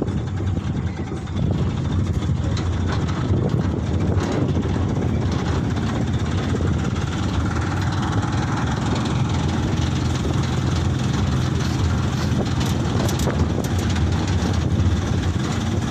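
Light truck running along: a steady engine drone mixed with road noise, stepping up in loudness about a second in.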